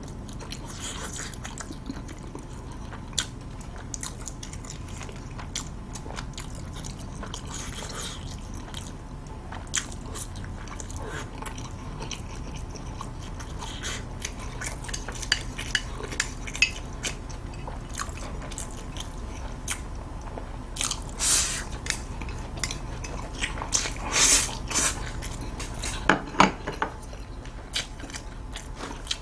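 A person eating close to the microphone: wet chewing of jjajang buldak stir-fried noodles, with many small mouth clicks and a few louder bursts of eating noise about two-thirds of the way in.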